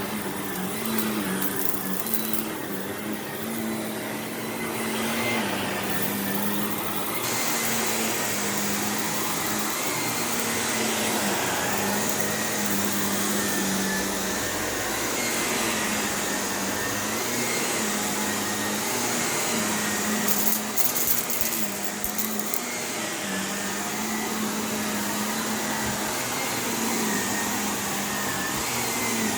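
Shark Navigator Lift-Away NV351 upright vacuum running steadily over carpet, its motor pitch shifting slightly up and down as it is pushed back and forth. About two-thirds of the way through there is a brief crackle of grit being sucked up.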